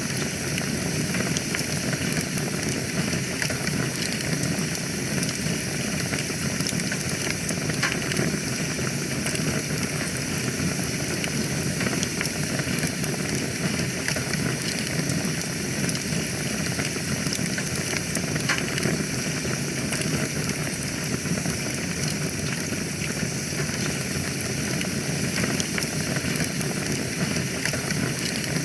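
Wood fire burning in a fireplace: a steady hiss with many small crackles and pops scattered throughout.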